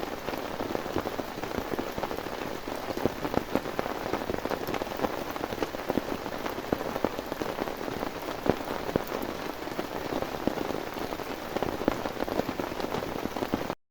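Heavy rain falling steadily, a dense patter of many individual drops striking a surface, stopping abruptly just before the end.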